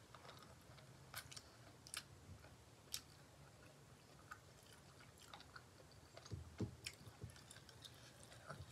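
Faint chewing and mouth clicks of a person eating mutton curry and dhido by hand, with a few soft low knocks about six and a half seconds in.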